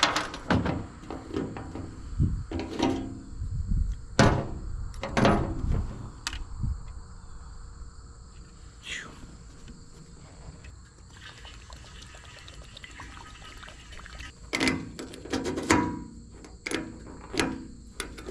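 A string of clanks and knocks from parts and hand tools being handled on the excavator, in two bursts with a quieter stretch between.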